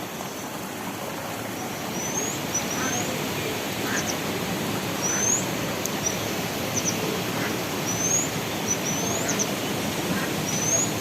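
A small bird repeating short, high, rising chirps every second or so, over a steady rushing background noise.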